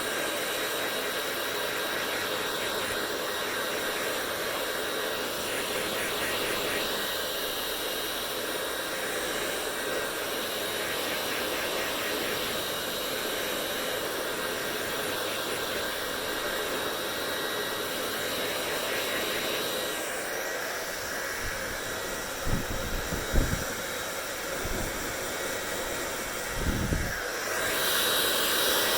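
Hair dryer blowing steadily. About twenty seconds in, its high hiss dulls for several seconds with a few low thumps, then comes back a little louder near the end.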